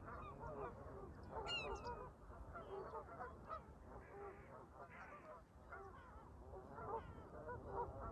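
A flock of Canada geese honking, many short calls overlapping without a break, with one higher, sharper bird call about a second and a half in. A steady low wind rumble lies underneath.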